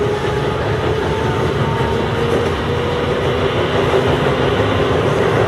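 Chiba New Town Railway 9000 series electric train running along the line: a steady rumble of wheels on rail with a steady hum from the traction motors.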